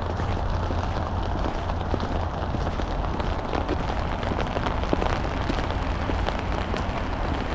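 Sleety rain falling and ticking on surfaces, many small scattered drop hits over a steady hiss, with a constant low rumble underneath.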